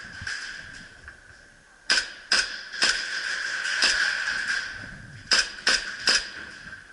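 Airsoft guns firing single shots: three sharp pops about half a second apart, a pause of about two and a half seconds, then three more.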